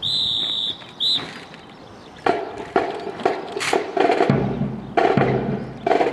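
A whistle blown once for under a second, then again briefly. Then drill percussion starts: sharp, rhythmic strikes with a wood-block and drum sound, and a low steady hum joins about two-thirds of the way through.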